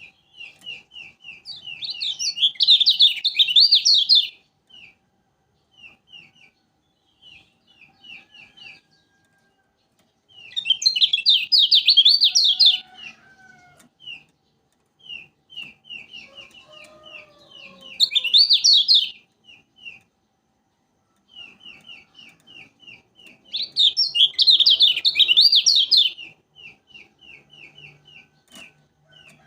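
A kecial kuning, a small white-eye from Lombok, calls with a steady run of short high chips, several a second. Four times it breaks into a loud, rapid chattering trill of two to three seconds each.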